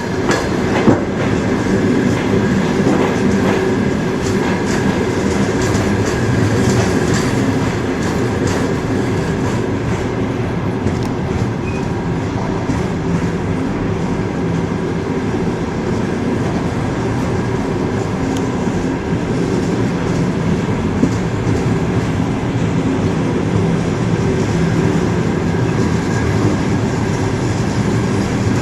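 Train wheels running on the rails: a steady rumble with clicks of the wheels over rail joints, more of them in the first ten seconds or so.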